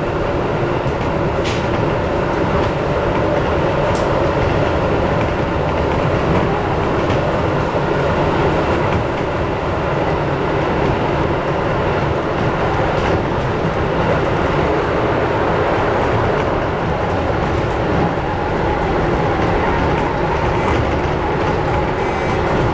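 Keisei electric commuter train heard from inside the car, running steadily between stations: an even rumble of wheels and traction motors, with a few faint clicks.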